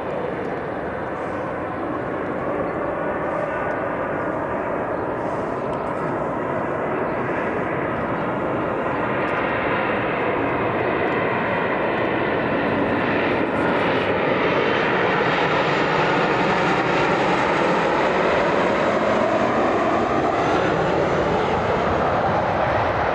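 Embraer E190 jet airliner on landing approach, its two GE CF34 turbofan engines running with a steady rushing sound that grows slowly louder, with tones that slide in pitch as it passes.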